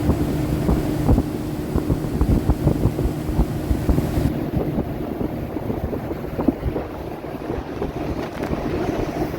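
Small boat's motor running with a steady low hum, partly masked by wind buffeting the microphone; the hum weakens about four seconds in.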